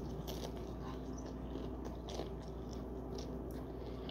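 Close-up chewing of a mouthful of crunchy Takis taco: a run of small, soft crunches with the mouth closed, over a steady low hum.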